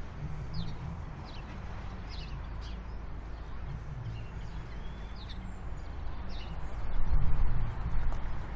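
Birds chirping: a string of short, quick calls through the first six seconds, over a steady low rumble that grows louder near the end.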